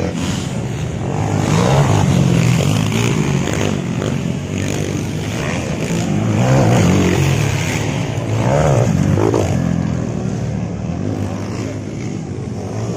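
Motocross dirt bike engines revving hard and easing off again and again as the bikes race on the track, the pitch climbing and dropping several times.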